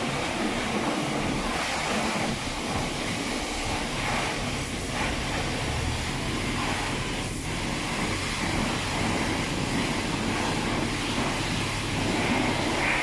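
Car-wash water spray and machinery working over the car: a steady rushing noise, joined by a low steady hum from about three seconds in.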